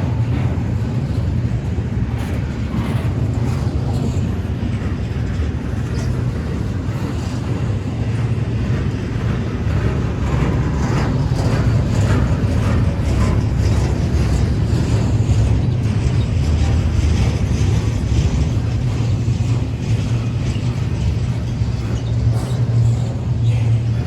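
Norfolk Southern intermodal train rolling past: a steady low rumble of the cars on the rails, with faint scattered clicks from the wheels.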